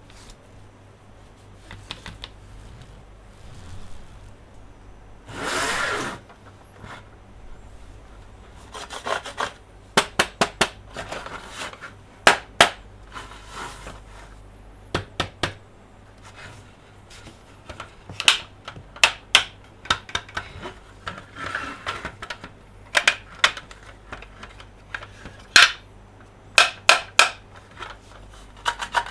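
Plastic toy monster trucks and playset pieces handled close to the microphone: a brief scrape about six seconds in, then many sharp, irregular clicks and taps.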